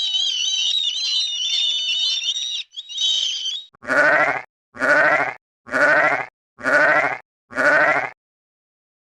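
High-pitched bird chirping for the first few seconds. Then a sheep bleats five times, about once a second, each call wavering.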